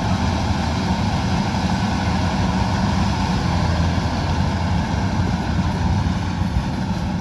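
Kubota DC105X combine harvester running with a steady engine drone.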